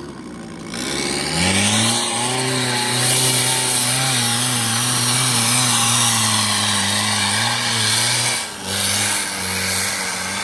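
Off-road vehicle's engine revving hard: it climbs in pitch about a second and a half in, holds at high revs with small wavers for several seconds, briefly drops near the end and then picks up again.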